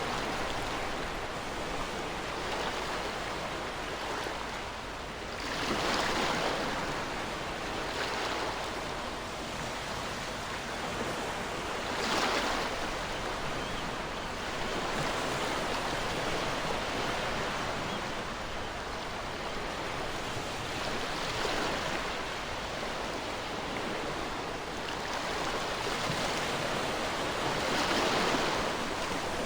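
Ocean waves breaking on a shore in a steady wash of surf, with a few louder swells, the clearest about six seconds in, near twelve seconds and near the end.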